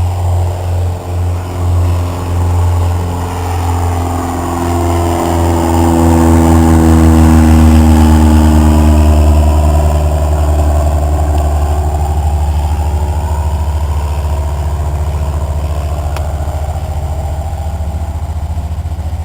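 Cessna 152's four-cylinder Lycoming piston engine and propeller droning as the light aircraft passes by, swelling to its loudest about eight seconds in and then easing off a little.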